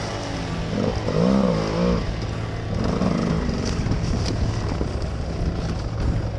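Enduro motorcycle engine heard from the rider's helmet, running at low speed and revving up and down about a second in as the bike picks its way over rough forest ground, with a few sharp knocks.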